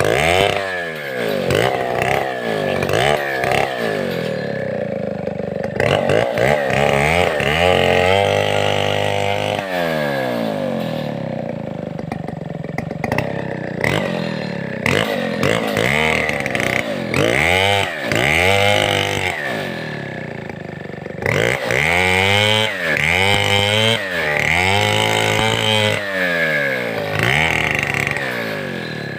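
Large two-stroke chainsaw of the Stihl 070 class running, its throttle opened and released again and again so the engine pitch keeps rising and falling. It holds a steady high speed for about two seconds around eight seconds in, then drops back and revs up repeatedly.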